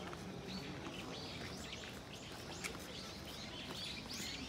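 Small birds chirping in woodland: many short, high calls overlapping over a steady low background noise.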